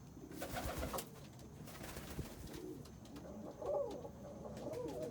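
Domestic homing pigeons cooing in their loft: a few rising-and-falling coos in the second half, the loudest a little under four seconds in, after a brief rustle near the start.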